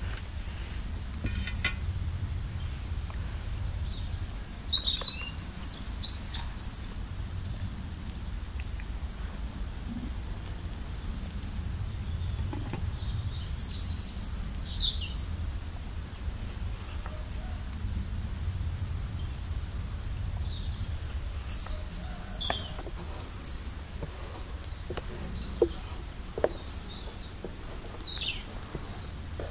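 Small birds chirping with short, high calls that come and go, loudest about six seconds in, again around fourteen seconds and around twenty-two seconds, over a steady low rumble of outdoor background noise.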